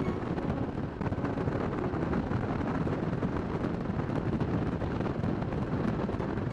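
Kawasaki Nomad 1600's V-twin engine running steadily at cruising speed, with wind buffeting the microphone.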